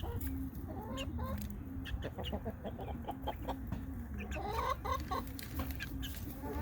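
Chickens clucking, with short low calls scattered throughout.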